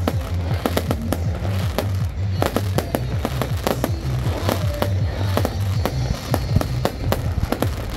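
Aerial fireworks shells launching and bursting in rapid succession: many sharp bangs and crackles, several a second, over background music with a low pulsing beat.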